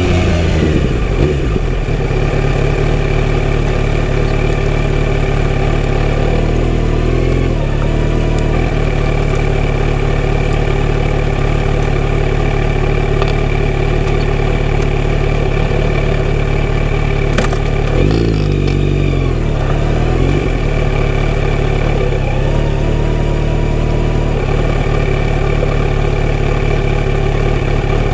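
Kawasaki Z900RS inline-four with a full-system exhaust, idling steadily at a constant pitch. Twice, at about 7 and 18 seconds in, there is a brief rise and fall in pitch.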